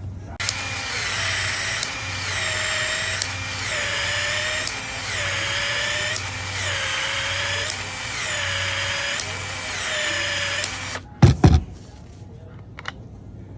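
A power tool runs with a whining tone that sags and recovers in pitch about every second and a half, as if it is repeatedly loaded. It stops near the end, followed by two loud knocks.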